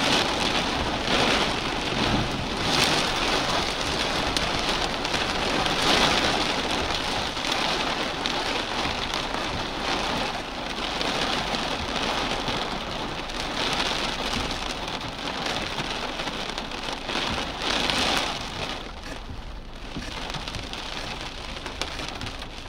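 Heavy rain falling in a thunderstorm, a steady hiss of downpour that swells and eases every few seconds in gusts.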